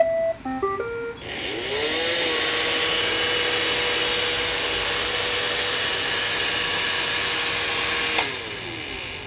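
iRobot Roomba 643 robot vacuum playing its short tune of electronic beeps, then its vacuum and brush motors spinning up with a rising whine. The motors run steadily with a loud whirring hiss and wind down about eight seconds in.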